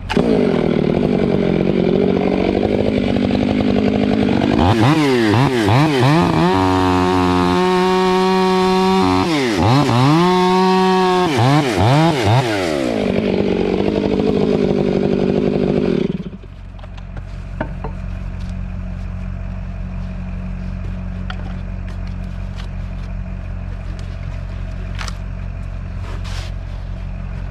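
Chainsaw running and revving up and down repeatedly, then cutting off suddenly about sixteen seconds in. A steady low hum carries on after it stops.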